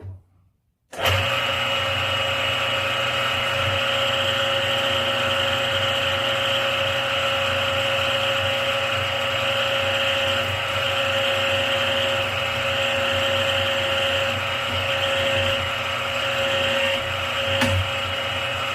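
Drilling machine running steadily, boring a centre hole through three stacked bracket plates; the sound starts about a second in and holds an even pitch, with a short click near the end.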